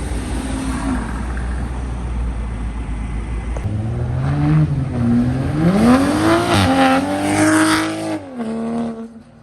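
A car engine accelerating hard away: a low rumble, then revving up in pitch, dropping at a gear change and pulling up again, before it lets off and fades near the end.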